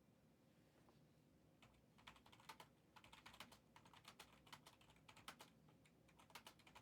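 Faint typing on a computer keyboard: quick, irregular key clicks that begin about a second and a half in.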